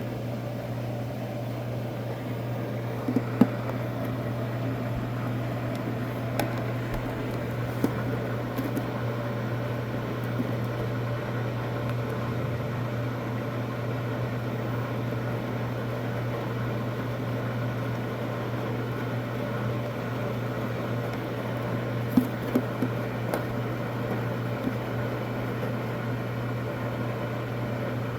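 Washing machine running mid-cycle: a steady low hum, with a few short sharp clicks about three seconds in and again a little past twenty-two seconds.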